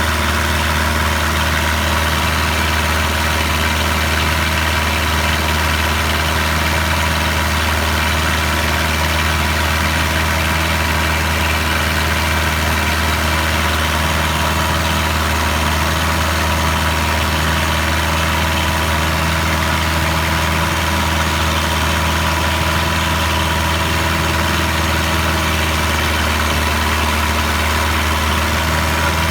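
Boat engine running steadily at a constant speed, a loud low hum with an even rushing noise over it.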